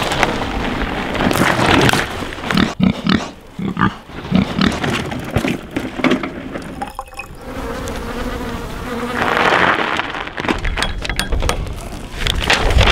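Mountain bike ridden over a trail: tyres on dirt and gravel and many short knocks from the bike. A buzz runs through it, typical of a rear freehub ratcheting while coasting.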